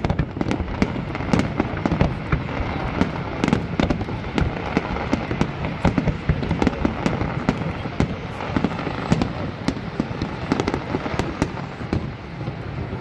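Fireworks display going off in a dense, continuous barrage of many bangs and crackles every second.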